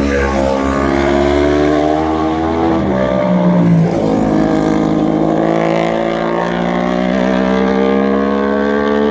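Superbike racing motorcycle engine at high revs, its pitch climbing steadily as it accelerates, with a brief dip about three seconds in like an upshift before it climbs again.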